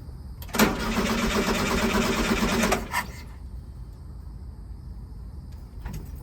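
Starter motor cranking a 1973 VW Super Beetle's air-cooled flat-four for about two seconds and then stopping, without the engine catching: the ignition is giving no spark.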